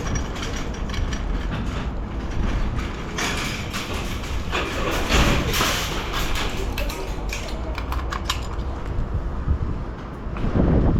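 Honda CBR1100XX Blackbird motorcycle on the move: a steady low engine rumble under rushing wind noise, with crackles of wind buffeting the microphone.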